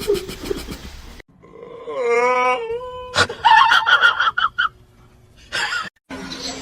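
A pet's drawn-out wailing cry that rises, falls and then holds a note. A sharp click and a rougher, shorter cry follow in quick cuts.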